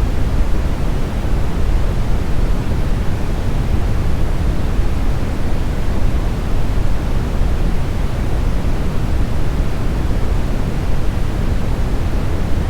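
Smoothed brown noise: a steady, deep rushing hiss with most of its weight in the low end, unchanging throughout.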